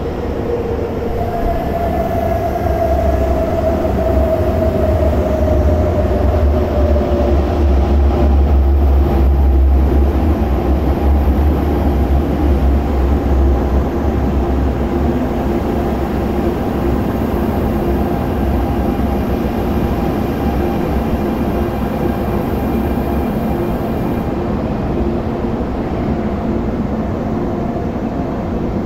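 MTR Tung Chung Line electric train pulling into the platform: a heavy low rumble of wheels on rail that grows loudest about ten seconds in and dies away as the train stops. A motor whine falls slowly in pitch over the first several seconds as the train slows, followed by a steadier hum.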